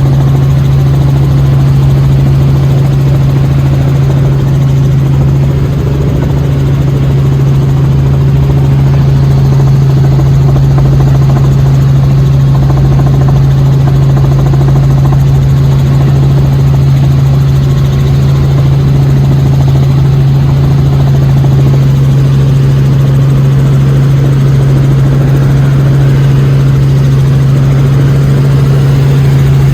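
Helicopter running steadily: a loud, constant low drone of engine and rotor, with no change in pitch or level.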